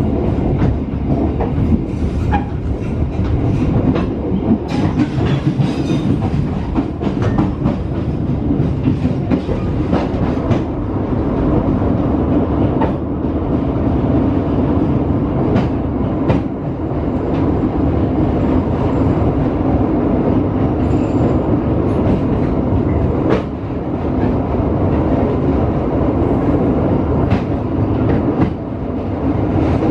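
Passenger train running, heard from inside the carriage: a steady rumble of wheels on rails, with scattered sharp clicks and knocks.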